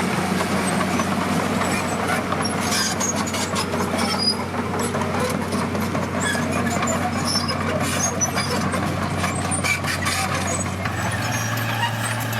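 Heavy diesel construction machinery running steadily, with scattered clanks and knocks. The engine note steps up slightly near the end.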